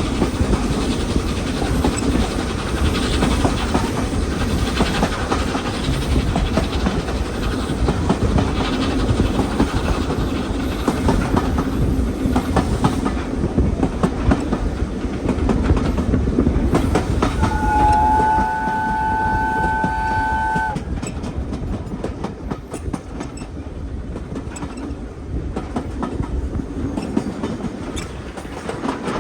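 Train running along the track with a steady rumble and wheels clattering over rail joints. Just past the middle, a locomotive whistle sounds for about three seconds, two notes at once, and the running sound is a little quieter afterwards.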